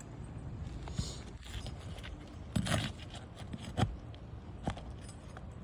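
A metal pry tool scraping and clicking against asphalt roof shingles as sealed shingles are worked loose: a scratchy scrape a little over two and a half seconds in is the loudest sound, with a few short sharp clicks scattered around it.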